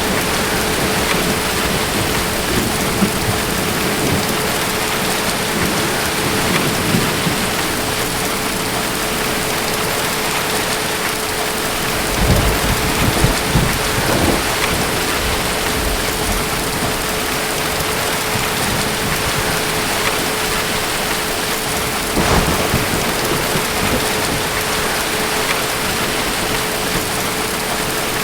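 Steady heavy rain falling, with low rumbles of distant thunder swelling about twelve seconds in and again later.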